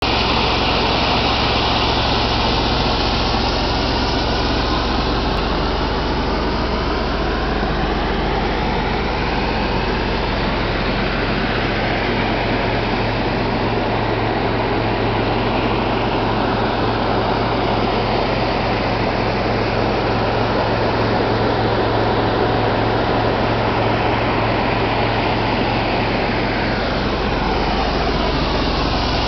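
A vehicle's engine idling steadily, with the even rush of water pouring over a low stone dam mixed in.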